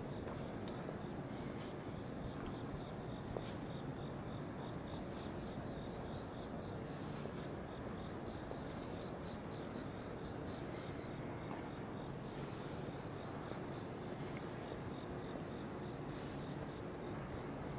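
Crickets chirping in runs of evenly spaced pulses, about six a second, stopping and starting every few seconds. Another insect keeps up a steady high trill beneath them, over a constant low rumble of distant traffic.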